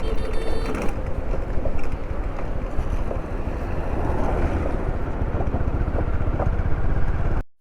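Steady noise of a moving vehicle, with wind rumbling on the microphone, that cuts off abruptly near the end.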